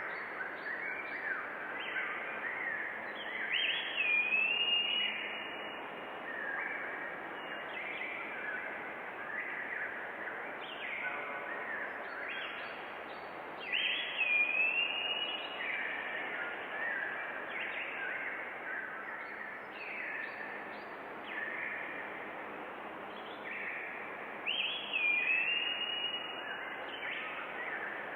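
Forest birdsong: many small birds chirping and whistling over a steady background hiss. A louder phrase, a whistle that falls and then holds its pitch, comes back about every ten seconds.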